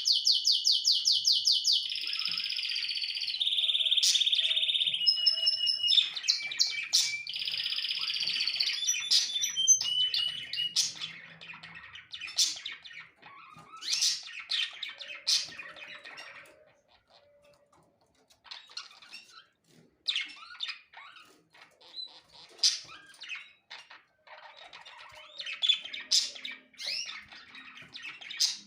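Small songbirds singing: a fast trill in the first two seconds runs into long rolled, buzzy notes, then gives way to scattered short chirps that are quieter in the second half, with brief pauses.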